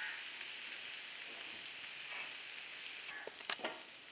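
Boiled potato cubes sizzling steadily in hot oil in a pan, with a few light clicks of a metal ladle against the pan a little after three seconds in.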